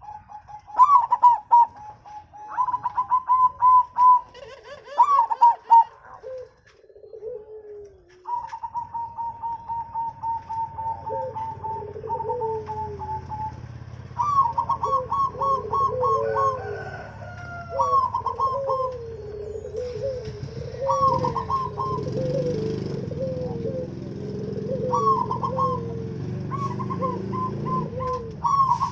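Several zebra doves (perkutut) cooing, their phrases overlapping: quick runs of notes near 1 kHz over lower coos, with one long even trill about nine seconds in. Faint chirps of smaller birds, and a low hum that grows louder from about twenty seconds in.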